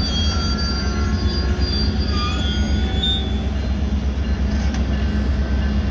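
Alaska Railroad passenger cars' steel wheels squealing thinly on the rails over a steady low rumble from the train; the squeals fade out a little past halfway.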